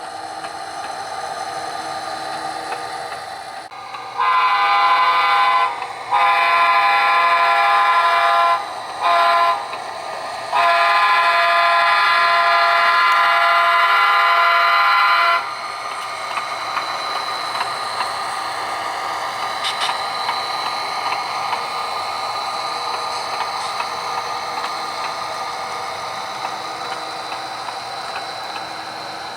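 Sound-equipped HO-scale model diesel locomotive blowing its chime horn in the grade-crossing pattern: long, long, short, long. Its diesel engine sound runs steadily underneath.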